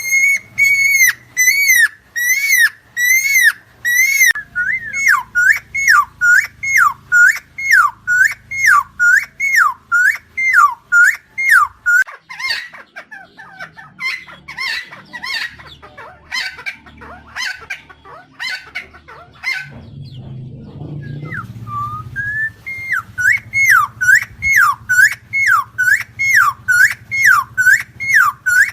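Helmeted friarbird (Philemon buceroides) calling loudly, a long series of hooked, whistled notes about two a second. Partway through, the notes turn rougher and faster, then break off briefly. The steady series resumes near the end.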